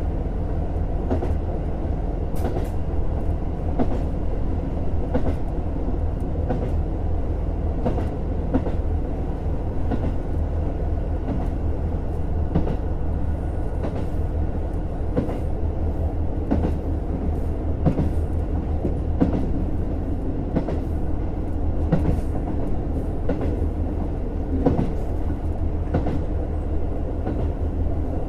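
JR Hokkaido KiHa 150 diesel railcar running along the line: a steady diesel engine drone under the rumble of the wheels, with wheels clicking over rail joints at a steady pace, about one click a second or so.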